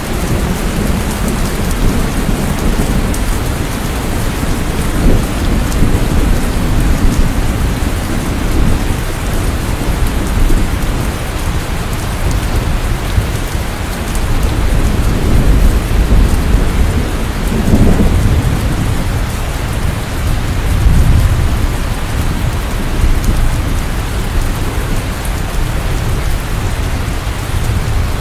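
Steady heavy rain, with low rumbles of thunder swelling and fading a few times.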